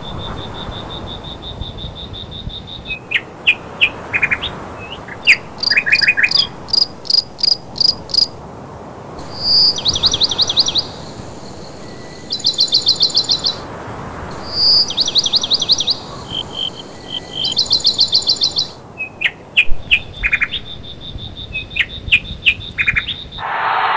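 Birds chirping and trilling in repeated short series over a steady background rush, with a thin steady high tone in the first few seconds.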